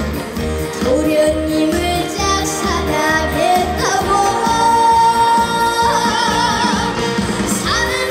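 Female vocalist singing a Korean trot song live over an amplified backing track with a steady beat, holding notes with a wide vibrato near the end.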